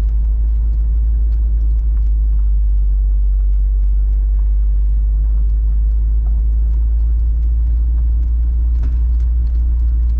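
A car driving slowly, heard from inside: a steady low rumble of engine and road noise, with a few faint ticks.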